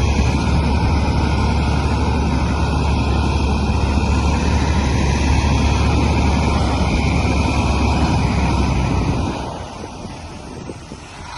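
Komatsu bulldozer's diesel engine running loudly in a steady low drone. It drops off sharply about nine seconds in.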